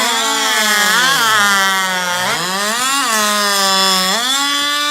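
Two-stroke racing chainsaw (hot saw) at full throttle cutting through a log. Its engine pitch sags under load and climbs back up several times as the chain bites and clears the wood.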